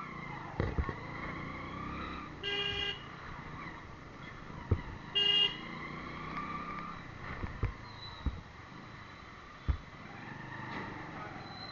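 Road traffic with a vehicle horn giving two short toots, about two and a half and five seconds in, over engine noise and a few sharp knocks.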